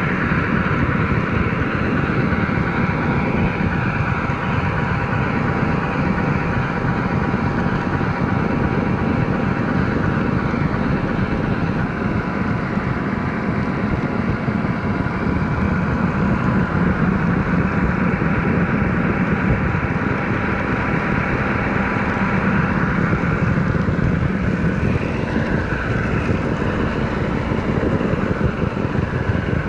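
HO scale model train running steadily on the layout.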